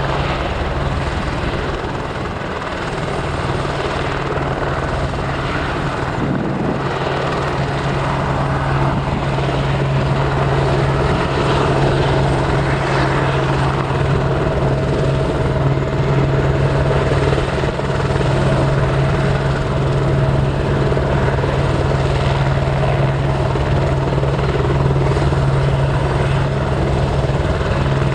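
An aircraft's engine running steadily close by. A strong, steady low hum sets in about two seconds in and holds, and the sound grows slightly louder over the stretch.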